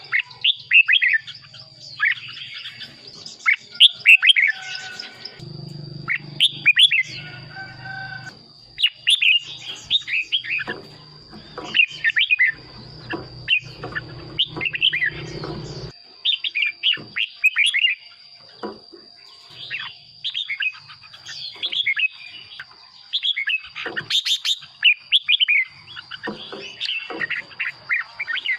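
Red-whiskered bulbul singing: short, bright, warbling phrases repeated a few times a second with brief pauses. A steady thin high tone runs underneath.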